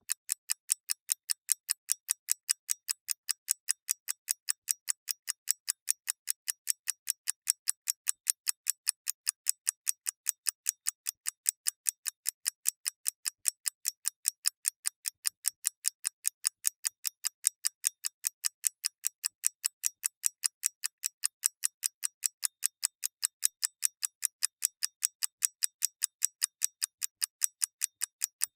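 Mechanical clock ticking: rapid, perfectly even, high-pitched ticks, several a second, alternating slightly louder and softer like a tick-tock.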